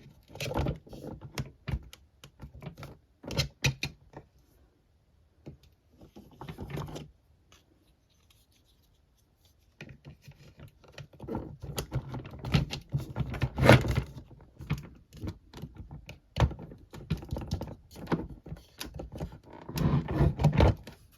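Hard plastic toy pieces handled and pushed together: irregular clicks, knocks and rattles, stopping for a couple of seconds near the middle, then busier again.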